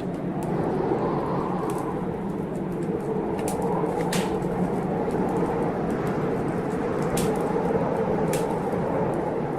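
Heavy blizzard wind blowing in a steady rush that swells a little, with a wood fire crackling: scattered sharp pops, a few louder ones, over the wind.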